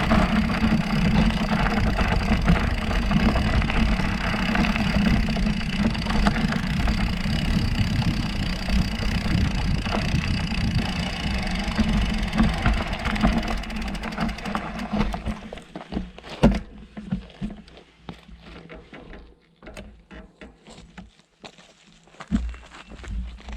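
Mountain bike ridden on a dirt forest trail: rumbling wind and tyre noise with rattles and clicks. About fifteen seconds in, the steady noise falls away to scattered crunches and clicks, as the bike slows and stops.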